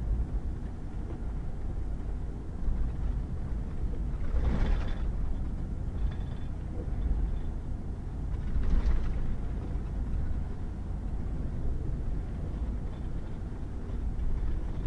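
Pickup truck driving on a gravel back road: a steady low rumble of engine and tyres, with two brief louder swishes about four and nine seconds in.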